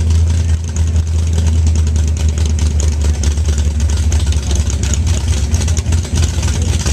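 A motor vehicle engine running steadily, with a strong low drone and a noisy hiss above it.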